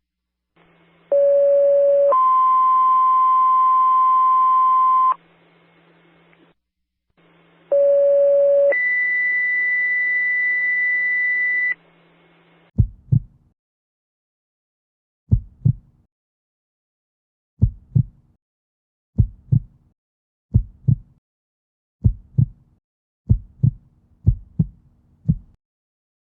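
Two-tone emergency pager alerts: twice, a short low tone steps up to a longer, higher held tone, the second alert pitched higher than the first. Then a heartbeat sound effect of double lub-dub thumps that comes faster and faster.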